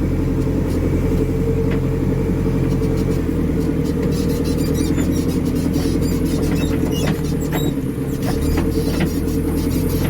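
Backhoe loader's diesel engine running steadily while the machine drives along a road, with frequent sharp rattles and knocks as it jolts and shakes.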